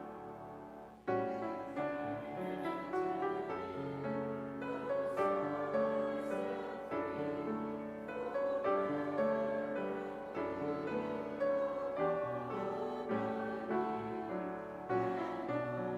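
Instrumental piano music, slow chords; the sound falls away and a new phrase starts sharply about a second in.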